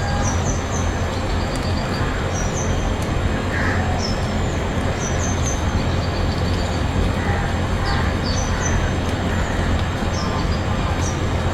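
Steady rain noise with a low rumble underneath, while a small bird repeats short high chirps in groups of two or three every second or two, with a few lower calls from other birds.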